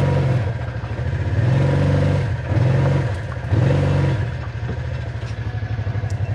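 Side-by-side UTV engine revving up and back down four times in quick succession, then settling to a steady idle about four and a half seconds in.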